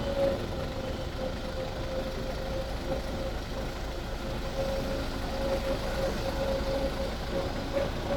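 Double-decker tour bus engine running, heard from aboard, with a low rumble and a steady high whine.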